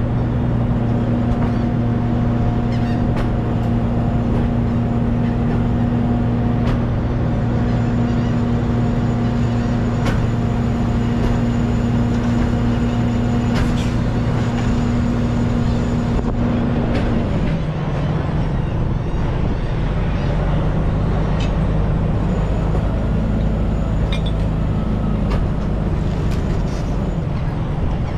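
Truck engine running steadily while driving, with road noise; about two-thirds of the way through, the engine note drops lower, as at a gear change or when easing off.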